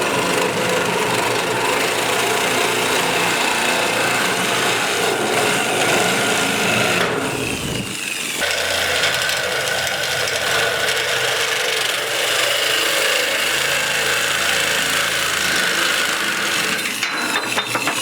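Power tool cutting through the middle of a bent steel round bar: a steady, harsh grinding noise that eases briefly about eight seconds in and then carries on.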